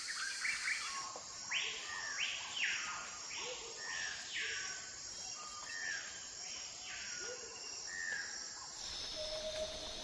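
Small bird chirping, a string of short falling notes roughly two a second, over a steady high insect trill. Near the end the chirps stop and the background changes abruptly.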